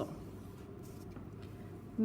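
Faint steady room noise with a low hum, no distinct sound.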